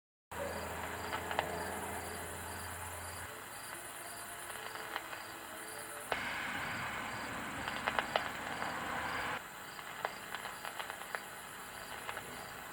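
Night crickets chirping steadily, a regular pulse of about two chirps a second with faster, higher chirping above it, with scattered faint clicks.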